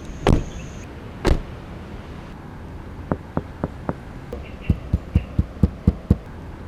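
Two loud, dull thumps in the first second and a half, then an even run of short, low knocks, about four a second, over a steady low hum.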